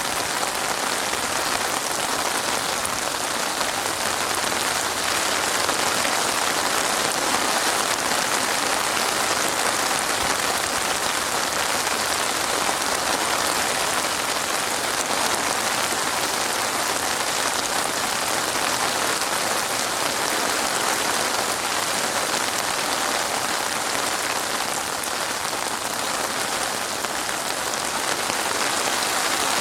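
Steady, even rainfall pattering on a surface, with no thunder.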